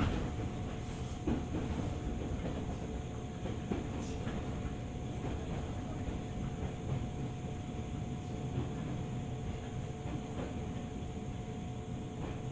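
JR 205 series 600 electric train running, heard inside the passenger car: a steady rumble of wheels on rail with a faint steady hum.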